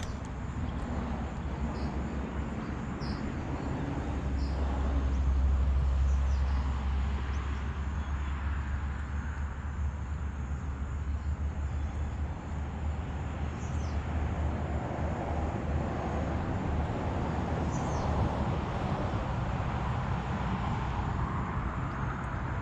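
Road traffic rumbling beside the water, with one vehicle passing that swells up and fades away about five seconds in, and faint short high chirps scattered over it.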